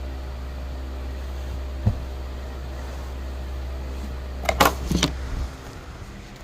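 Steady low hum that cuts off about five and a half seconds in. There is a short thump about two seconds in and a few sharp rustles or knocks just before the hum stops.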